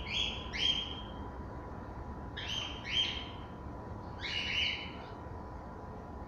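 African grey parrots giving short, harsh squawking calls in three clusters of two or three, a second or two apart.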